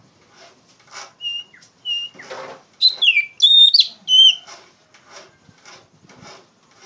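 Oriental magpie-robin (kacer) singing loud, clear whistled phrases, loudest in the middle, over short harsh rasping notes repeated about twice a second.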